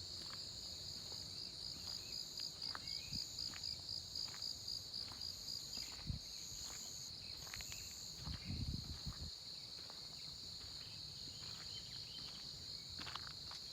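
Steady high-pitched insect chorus from the forest, pulsing for a few seconds in the first half, with scattered short bird chirps. A dull thump about six seconds in and a brief low rustle of steps around nine seconds.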